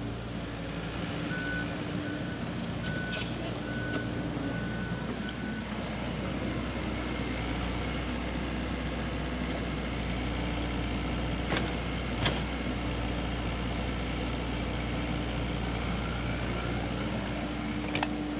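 Excavator's diesel engine running steadily, with a warning alarm giving about six short, evenly spaced beeps in the first few seconds, and a couple of sharp clicks or knocks later on.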